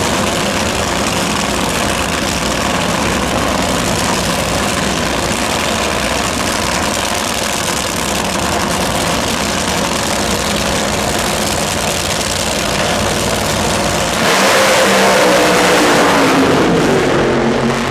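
Drag-racing car's engine running loud and steady through a pass. It grows louder about three-quarters of the way through, then falls in pitch near the end as it winds down.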